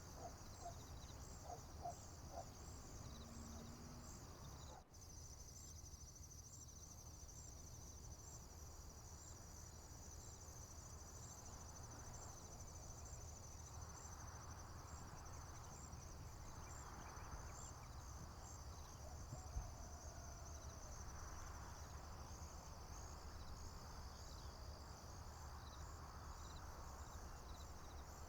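Crickets chirping steadily in a high, pulsing chorus, faint over a low outdoor rumble, with a brief dropout about five seconds in.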